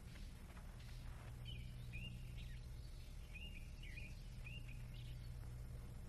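A few short bird chirps in quick succession, faint, over a steady low hum.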